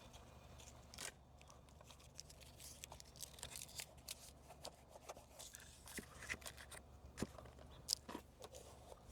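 Faint scattered crinkles and clicks of tape being torn and pressed on to hold a plastic rain guard in place on a car door.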